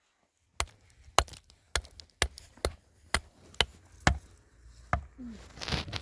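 A series of sharp knocks, about two a second and nine in all, followed by a brief rustle near the end.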